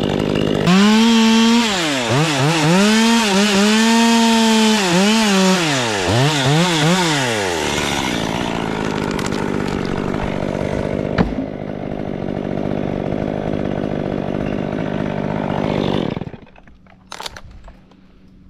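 Chainsaw cutting through beech wood, its engine note dipping and recovering again and again as the chain bogs in the cut. It then runs at a steadier, lower note and stops about two seconds before the end, with a couple of light knocks after.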